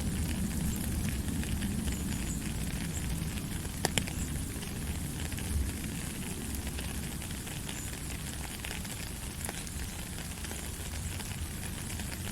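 Steady rain falling, a dense crackling patter of drops over a low rumble, with one sharper tick about four seconds in.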